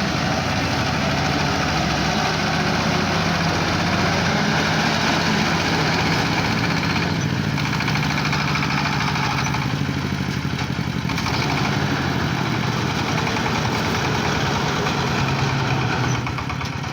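An engine running steadily at a constant speed, loud and close; its level drops a little about sixteen seconds in.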